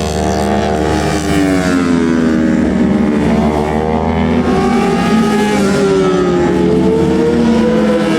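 Several superbike racing motorcycles at high revs, their engine notes sliding down and up as they pass and shift through the gears.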